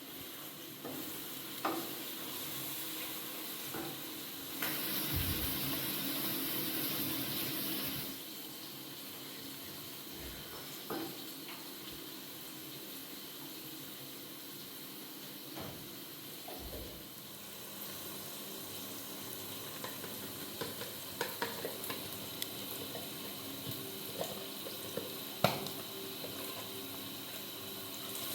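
Food sizzling as it fries in a pan, with occasional clinks and knocks of a utensil stirring it; the sizzle is louder for a few seconds near the start.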